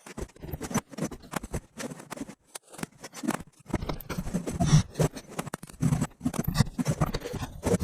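Irregular light knocks, clicks and scrapes of wood and tools being handled at a workbench, busier in the second half.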